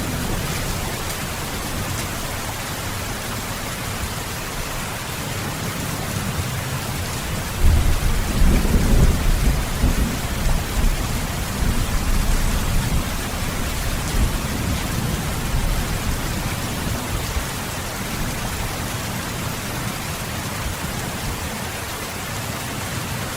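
Heavy rain falling steadily, with a roll of thunder breaking in about eight seconds in and rumbling away over several seconds.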